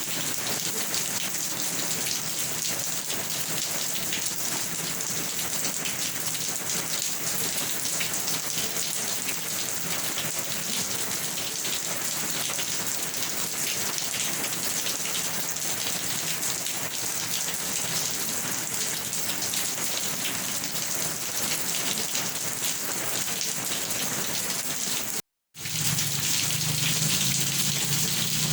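Steady rain falling on a surface: a dense, even hiss of drops. About 25 seconds in the sound cuts out completely for a split second, then resumes a little louder with more low rumble, like a splice between two recordings.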